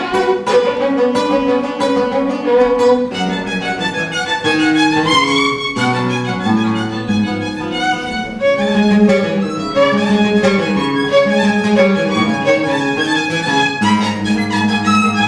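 Violin and guitar duo playing Hutsul folk-style tunes: the violin carries a melody of quick notes over the guitar's plucked accompaniment.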